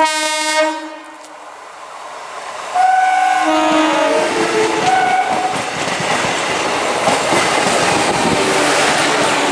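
EMU local train horn sounding briefly at the start. About three seconds in, an ICF Medha electric multiple unit rushes past close by with several horn blasts, followed by the steady rumble and wheel clatter of its coaches over the rail joints.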